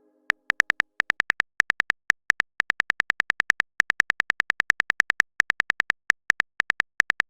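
Phone keyboard typing sound effect: a long run of short, sharp clicks with the same pitch, several a second at an uneven pace, as a message is typed out.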